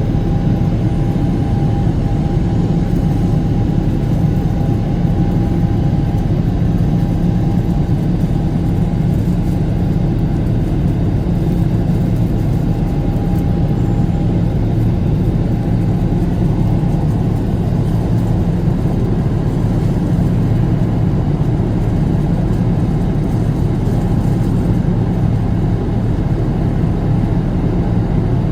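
Jet airliner in flight heard from inside the passenger cabin: a steady, loud engine and airflow drone with a low hum and a faint higher whine.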